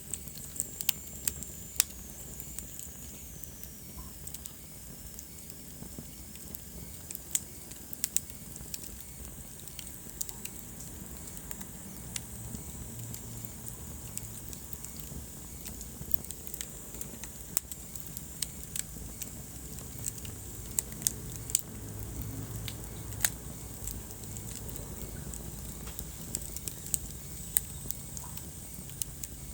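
Wood fire burning in a fireplace, crackling with irregular sharp pops over a steady low rumble of flame. A faint high whistle falls in pitch during the first few seconds.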